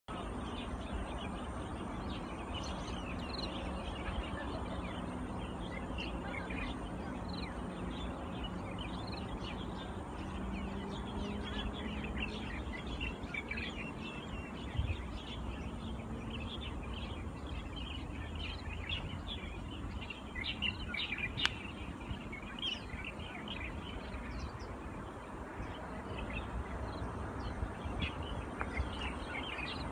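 Many small birds chirping continually, short high chirps overlapping one another, over a steady low outdoor background noise.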